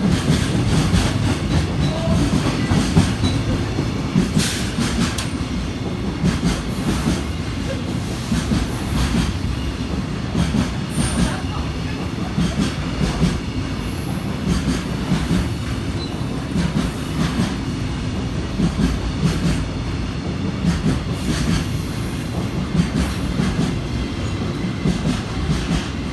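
Freight train of container wagons rolling past in a long, steady rumble, the wheels clacking over the rail joints again and again.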